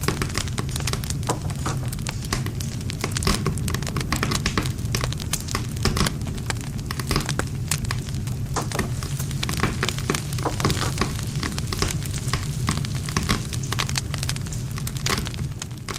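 Wood campfire burning: dense, irregular crackling and snapping of the burning wood over a steady low rumble.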